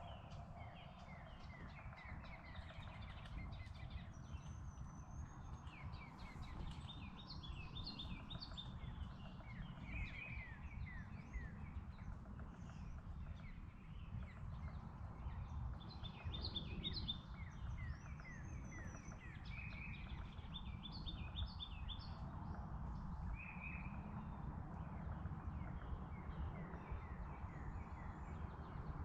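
Several songbirds singing, with repeated chirps and short trills, over a steady low rumble.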